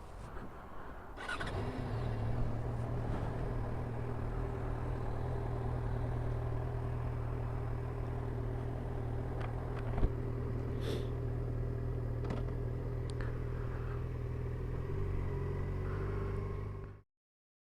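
Motorcycle engine running steadily at a constant speed. It comes in sharply about a second in, with one sharp click about ten seconds in, and cuts off suddenly near the end.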